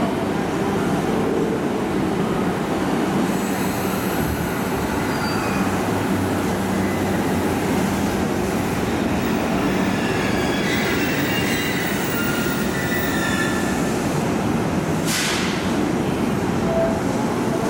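A Shonan-Shinjuku Line E233-series electric commuter train pulls into the platform and brakes to a stop, with steady wheel and running noise. Squealing tones come from the wheels and brakes in the last seconds of braking, and a short hiss comes near the end.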